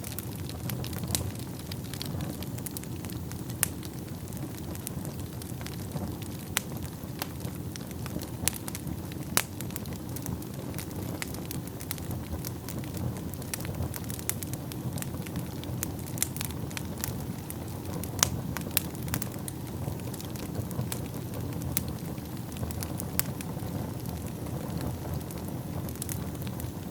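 Wood fire burning in a fireplace: a steady low rumble of flames with frequent sharp crackles and occasional louder pops from the burning wood.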